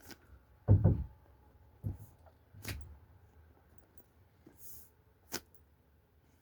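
Handling noise: a soft low thump a little under a second in, then a few fainter knocks and sharp clicks.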